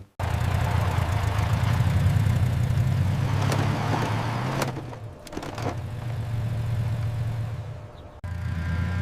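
Motor vehicle engine sound effect running steadily, cutting in abruptly at the start and again near the end, with a brief drop in level about five seconds in.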